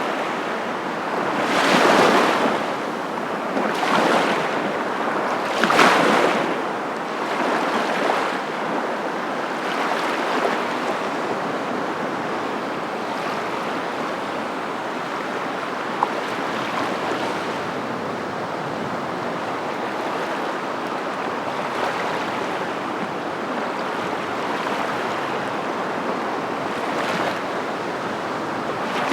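Continuous rushing noise of waves, swelling louder about every two seconds early on, then evening out into a steady wash; a single short click about halfway through.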